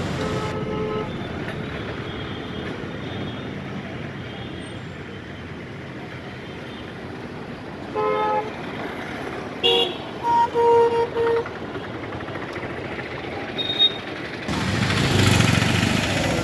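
Road traffic with engines running and vehicle horns honking. There are short toots at the start and about halfway, then a cluster of several quick honks. A louder rush of noise rises near the end.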